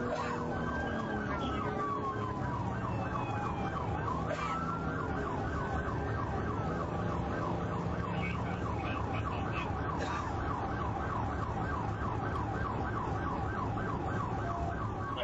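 Police car siren sounding in a slow wail, switching about five seconds in to a fast yelp of about four sweeps a second, over steady road and engine noise.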